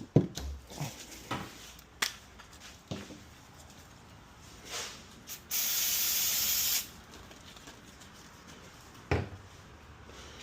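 An aerosol cleaner can spraying in one steady hissing burst of just over a second, about halfway through. A few short knocks and clicks come before and after it, the sharpest right at the start.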